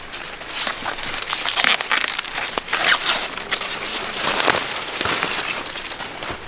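Dry corn leaves and husks rustling and crinkling in repeated bursts, with a few sharp snaps.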